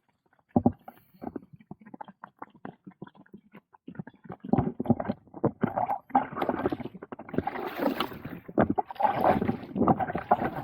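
Kayak paddle working the water: small drips and knocks at first, then from about four seconds in, louder splashing surges that come and go roughly once a second with the paddle strokes.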